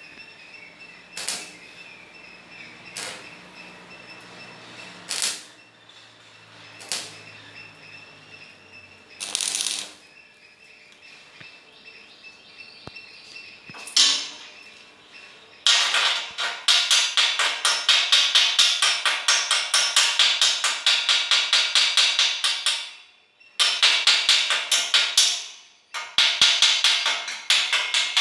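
Metalwork on a welded steel grill: single knocks every couple of seconds, then, about halfway through, a loud, fast, even run of strokes about four a second, broken twice by short pauses.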